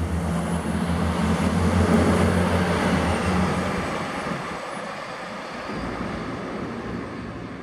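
Regional diesel railcar passing close by and running away down the line, its engine hum and wheel-on-rail rolling noise loudest about two seconds in. The engine hum drops away about four seconds in, and the rolling noise slowly fades as the train recedes.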